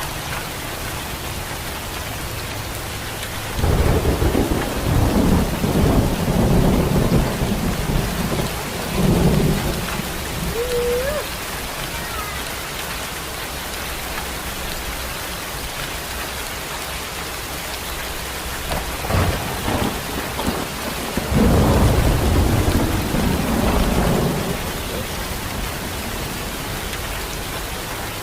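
Steady rain falling, with long low rolls of thunder about four seconds in and again around twenty-one seconds.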